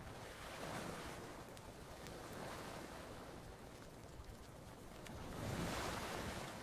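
Gentle ocean waves washing onto a beach in three slow swells, the last and loudest near the end. A few faint campfire crackles sound over the surf.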